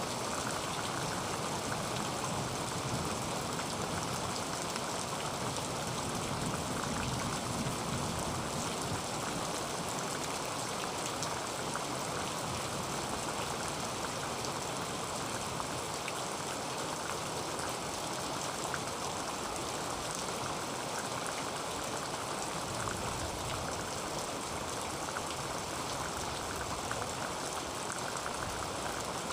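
Heavy rain falling on a tin roof: a steady, dense patter of drops.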